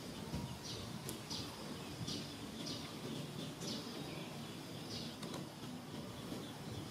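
A bird calling in short, high, falling chirps, repeated about once a second, over a steady low background noise.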